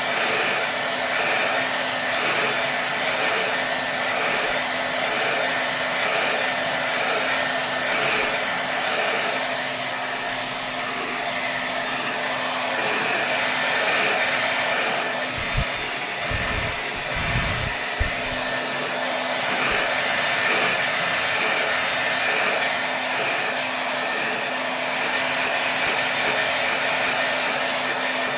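Hair dryer blowing steadily at full power, an even rush of air over a low motor hum. A few short low thumps come about halfway through.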